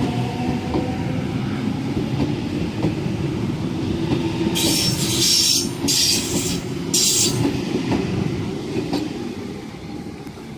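Waratah electric multiple-unit train pulling out of the station with a steady rumble of wheels on rail. Three short, high-pitched bursts of noise come about halfway through, and the sound fades toward the end as the train moves away.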